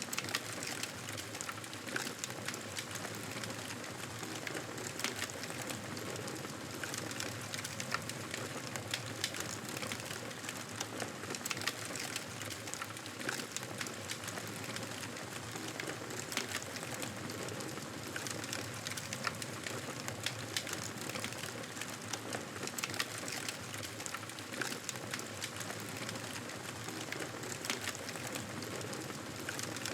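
Wood fire crackling steadily, with frequent small pops and snaps over a continuous hiss.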